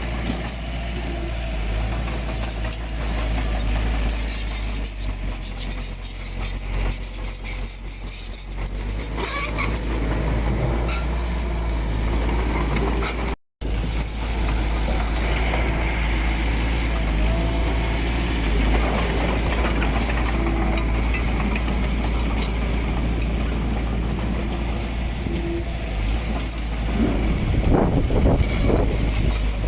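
Diesel engine of heavy earthmoving machinery running steadily with a deep low rumble and scattered light clanks. It breaks off for a moment about halfway through, then carries on.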